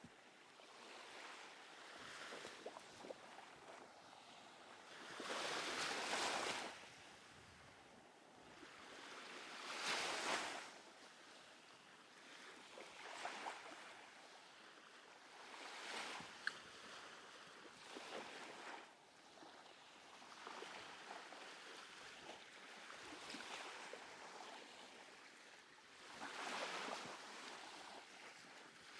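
Small waves breaking and washing up on a sandy beach in a light breeze. Each wave swells and fades, one every few seconds.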